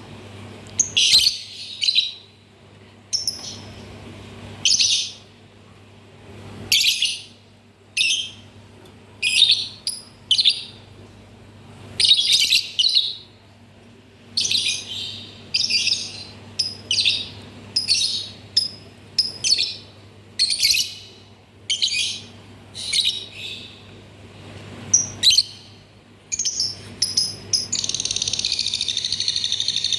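Lovebird making shrill, high chirping calls in short bursts, roughly one or two a second with brief gaps, breaking into continuous rapid chattering near the end. A faint steady low hum runs underneath.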